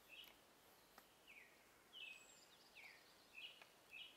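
Faint forest quiet with a small bird chirping repeatedly: short calls that slide downward in pitch, a little under two a second, with a couple of faint ticks.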